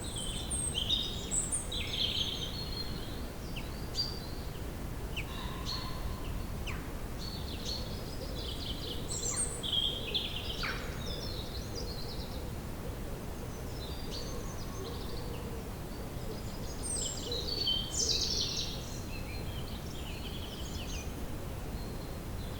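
Woodland ambience: several songbirds chirping and calling in short, overlapping phrases over a steady low background rumble.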